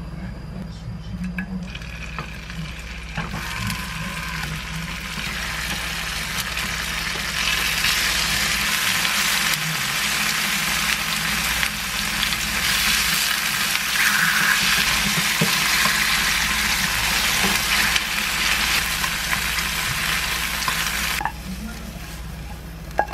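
Slices of tofu pan-frying in olive oil: a sizzle that builds over the first few seconds, grows loud and steady, and cuts off suddenly near the end, over a steady low hum.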